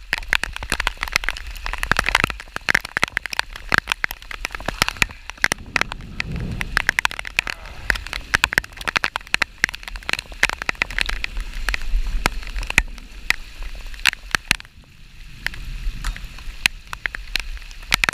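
Rain falling steadily, with many close raindrops striking near the microphone as a dense, irregular patter of sharp taps, over a low rumble of wind on the microphone.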